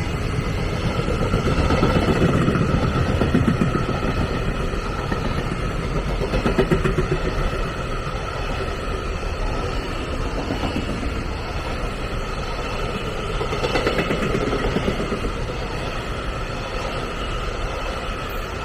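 A train running past on the line: a steady rumble of wheels on rails, with a stretch of rapid clatter a few seconds in and faint steady high tones over it.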